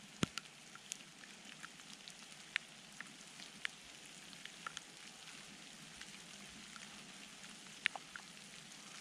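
Light precipitation falling on dry fallen leaves: a steady hiss with many scattered, irregular ticks, a sharper click just after the start.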